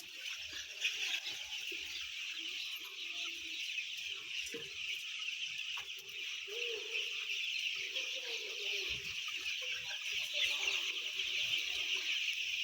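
Dense, continuous peeping of a large flock of young white chicks, thousands of high chirps overlapping into a steady chorus.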